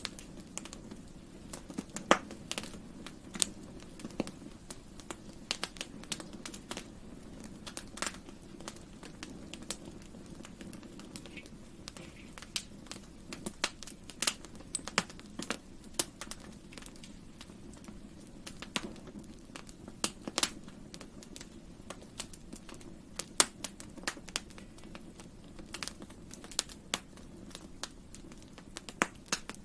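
Wood fire burning: a steady low rush of flames with many sharp, irregular crackles and pops of burning wood.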